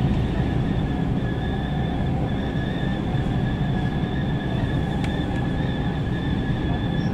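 Running noise of a JR Central 313 series 8000-subseries electric train at speed, heard from inside the passenger car: a steady rumble of wheels on rail with two faint, steady high-pitched tones over it.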